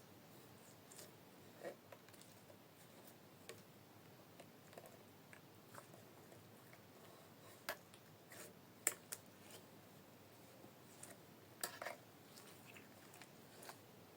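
Glitter slime being squished and played with by hand, giving soft, scattered wet clicks and pops, a few sharper ones in the middle and near the end.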